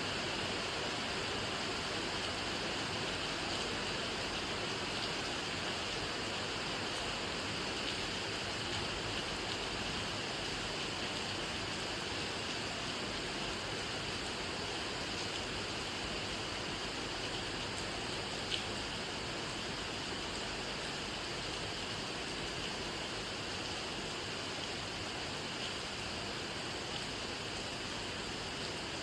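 Steady rain falling, an even hiss with no breaks, with one sharp tick about two-thirds of the way through.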